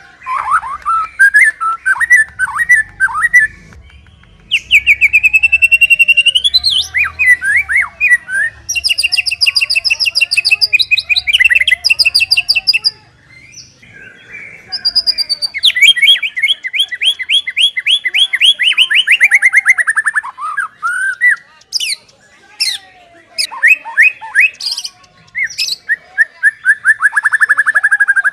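White-rumped shama singing a loud, varied song: fast trills of rapidly repeated notes, long runs of notes sliding downward, and rising whistled phrases, broken by short pauses.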